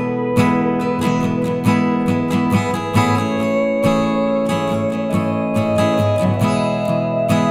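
Acoustic guitar music, strummed in a steady rhythm with sustained chords.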